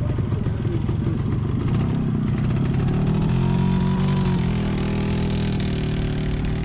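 A vehicle engine running close by with a fast, even beat; about three seconds in its pitch rises, then eases back a second or so later.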